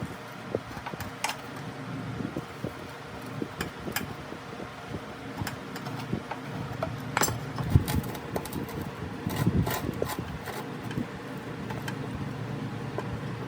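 Scattered clicks and knocks, as of tools and parts being handled, over a steady background hum.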